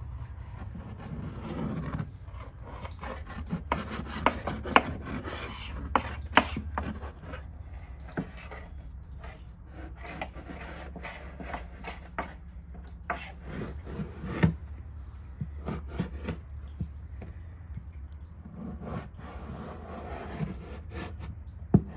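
Food being worked on a wooden surface: rubbing and scraping strokes with irregular sharp knocks, the loudest about four to seven seconds in and again about fourteen seconds in.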